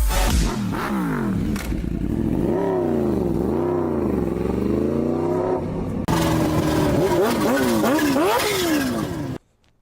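Kawasaki Ninja H2R's supercharged inline-four revving up and down over and over, with a break about six seconds in before more revs. The engine sound cuts off suddenly near the end.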